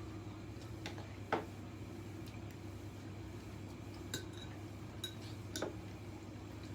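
Cutlery clinking against dishes a handful of times during a meal, the loudest clink about a second in, over a steady low hum.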